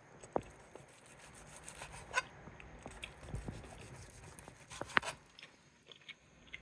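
Knife slicing smoked chicken breast on a cutting board: faint scattered taps and clicks, with a brief squeak about two seconds in.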